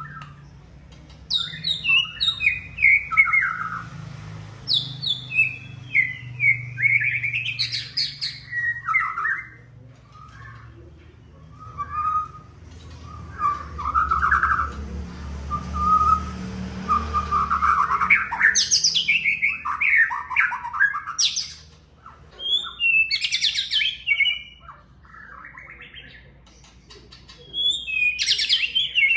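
White-rumped shama in full song: bouts of loud, quick, varied phrases of falling whistled sweeps, chattering notes and rapid trills, broken by short pauses.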